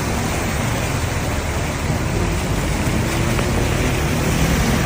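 Steady rush of heavy rain, with a vehicle's engine running faintly underneath.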